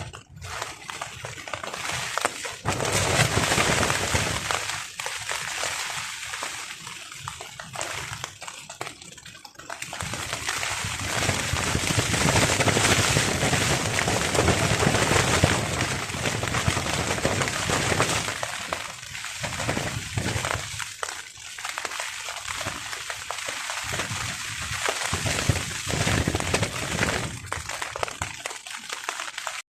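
Rain pattering on a tarp in strong, gusty wind, a dense continuous patter that swells loudly about three seconds in and again midway, then eases.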